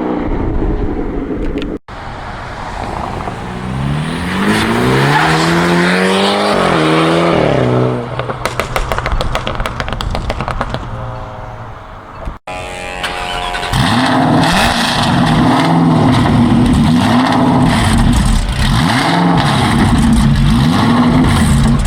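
High-performance car engines accelerating hard away from the meet, the engine note climbing in pitch through the gears, with a stretch of rapid exhaust crackling in the middle. After a cut about twelve seconds in, an engine revs repeatedly, its note rising and falling several times.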